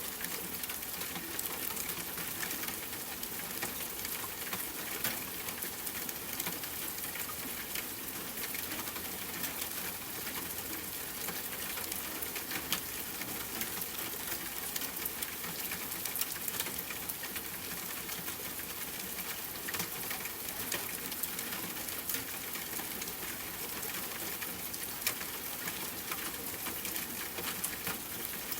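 Steady rain hiss with a campfire crackling: many small, sharp pops and ticks scattered throughout, at an even level.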